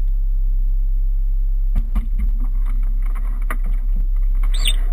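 Rover 214's four-cylinder petrol engine idling steadily, with a few knocks as the driver climbs in through the open door, and a brief high-pitched sound near the end.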